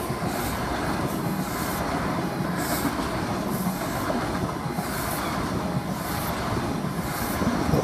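Class 43 HST (InterCity 125) train running past over the level crossing: a steady rush of wheels on rail, with a regular recurring clatter as the coaches' wheelsets go by.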